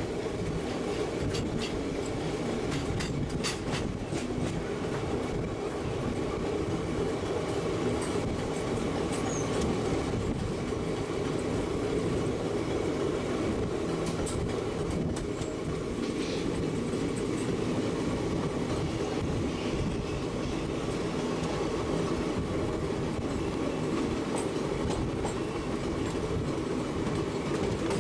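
Passenger train running steadily, heard from on board: a constant rumble of wheels on rails with occasional sharp clacks over the rail joints.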